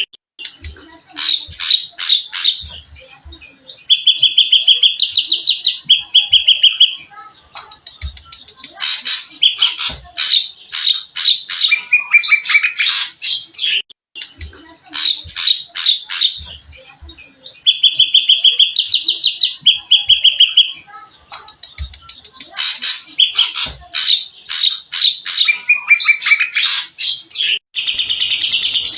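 Recorded songbird song: bursts of rapid chirps and buzzy trills with short pauses between them, the same phrases coming round again about every fourteen seconds, as a looped training recording.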